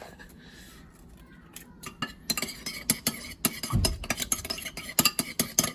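Rapid clicking and tapping of a utensil against a dish as chicken nuggets are dredged in egg and breadcrumbs, starting about two seconds in, with one dull thump partway through.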